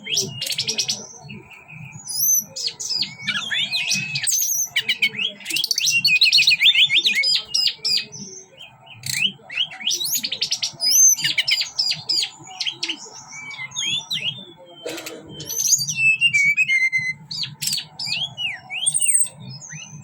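A teledekan gunung songbird singing in rapid, varied bursts of chirps and trills, one phrase after another with only short breaks.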